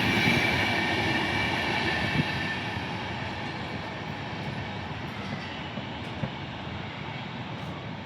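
A passenger train running past on the rails, its wheel rumble and clatter fading steadily as it draws away, with a faint high wheel squeal at first and a few sharp clicks from the rail joints.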